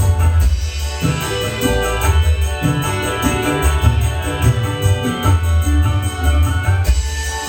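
Dangdut band playing an instrumental passage: electronic keyboard melody over bass and drum thumps, with a steady jingling percussion rhythm.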